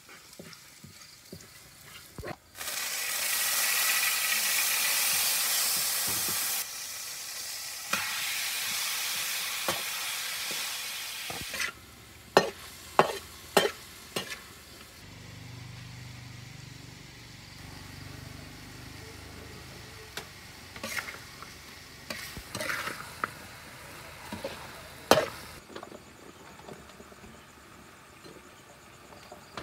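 Food frying in hot oil in a steel wok, with a loud sizzle starting a couple of seconds in that eases off after about nine seconds into a quieter one. A steel spatula scrapes and clanks sharply against the wok, in several quick strikes after the loud sizzle and again later.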